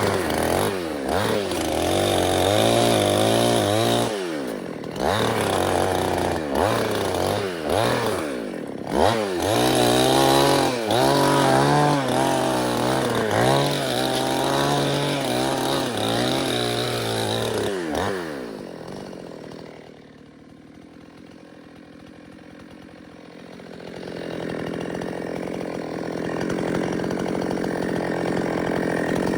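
Chainsaw revving up and down again and again as it cuts wood, then dropping to a low idle about nineteen seconds in. It builds back up and revs hard again right at the end, with a steady low engine hum underneath.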